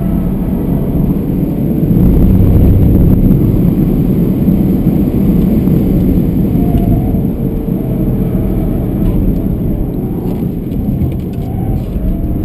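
BMW F31 320d Touring's four-cylinder turbodiesel running hard at speed, heard from inside the cabin together with tyre and wind noise. The sound is loudest from about two seconds in.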